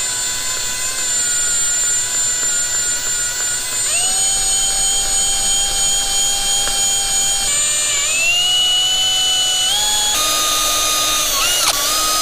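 A small high-speed electric motor, such as a power tool's, whining steadily. Its pitch steps and glides up and down several times as its speed changes.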